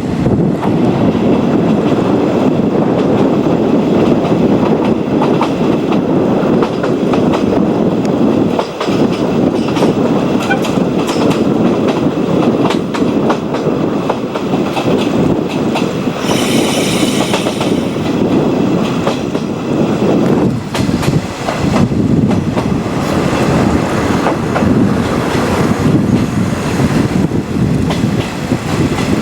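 Passenger train running along the line, heard from on board: a steady rumble with the clickety-clack of wheels over rail joints. There is a brief high hiss about sixteen seconds in.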